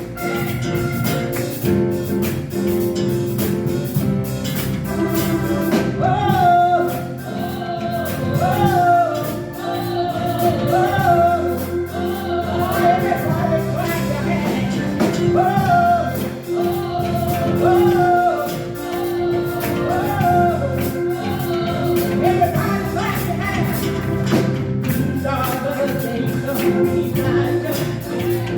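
A live praise-and-worship song: singing over a band, with the sung melody coming in about six seconds in.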